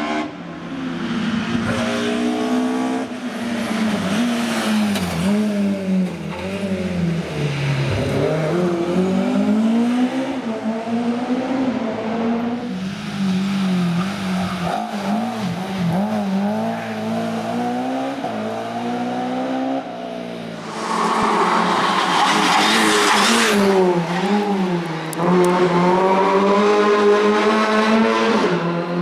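Rally car engine revving hard, its pitch repeatedly climbing and dropping through gear changes and braking, with tyre squeal. About three-quarters of the way through, a louder burst of rushing noise comes in as the car passes close.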